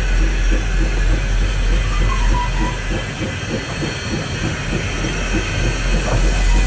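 Narrow-gauge steam train running: a steady low rumble with irregular clanks and wheel clatter over the rails. A hiss of steam comes in about six seconds in.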